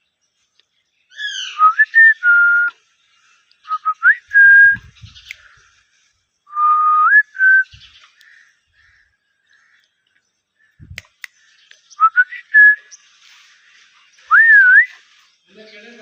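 Ringneck parrot whistling in short phrases of clear notes that slide up and then hold, with pauses between phrases and a quiet spell of a few seconds in the middle.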